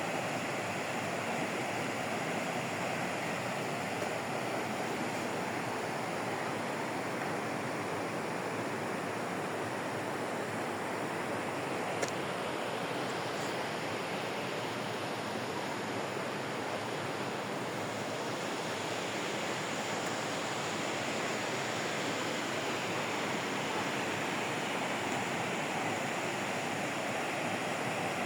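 Steady, even rushing of water, like a stream or waterfall, with one brief click about twelve seconds in.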